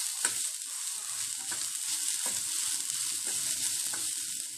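Grated coconut with small onions, chillies and curry leaves dry-roasting in a pan without oil, a steady sizzle while it is stirred. A few knocks of the stirring against the pan.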